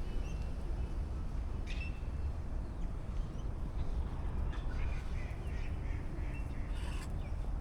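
Wild birds calling: a sharp call about two seconds in, then a run of short chirps from about halfway to near the end, over a steady low rumble.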